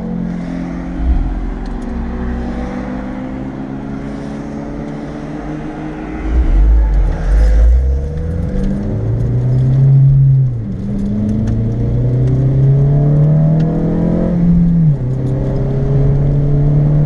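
Honda Civic Si's 2.0-litre four-cylinder engine, heard inside the cabin, idling steadily while the car sits stopped, then a heavy low rumble as it gets under way. The engine then climbs in pitch under acceleration, with two upshifts, one about halfway through and one near the end, and runs steady after the second.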